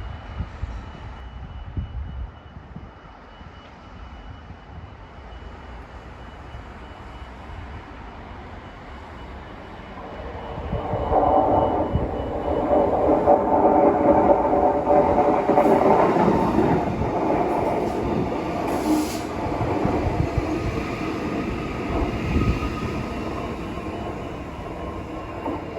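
A train running through the station: a low rumble builds from about ten seconds in to a loud stretch with a steady whine of several tones, then eases off but keeps running.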